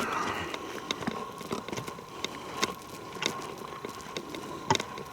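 Footsteps crunching over leaves and twigs on a forest floor, uneven irregular steps, over a faint steady high tone.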